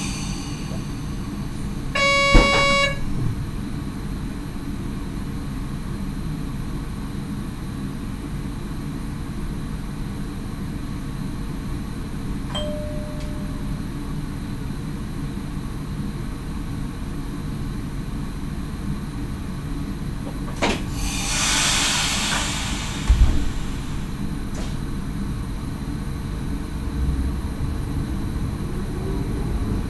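Inside the cab of an NS SGM Sprinter electric train: a steady low rumble, with a short beep and a click about two seconds in. About 21 seconds in there is a hiss of compressed air, then a thump. Near the end a whine starts to rise in pitch.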